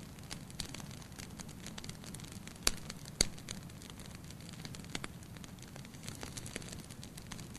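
Wood fire burning in a fireplace: a steady low rumble of flames with frequent small crackles, and two loud sharp pops about half a second apart near the middle.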